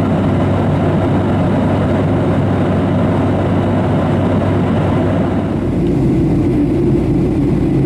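Steady cabin noise inside a Boeing 737-700 airliner: engine and airflow rumble with a low hum. About five and a half seconds in it changes to a deeper rumble with less hiss.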